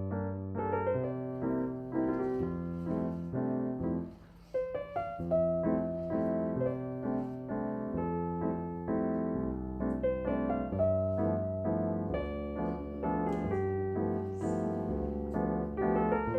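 Background piano music: sustained chords over a bass note that changes every second or so, with a short drop in level about four seconds in.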